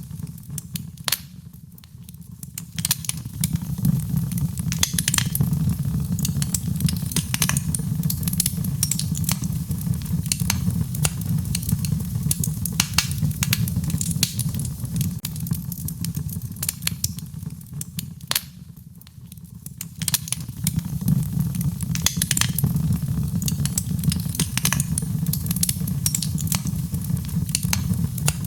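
Fireplace crackling with frequent sharp pops over a steady low rush, mixed with rain. The sound briefly dips twice, about two seconds in and again around two-thirds of the way through.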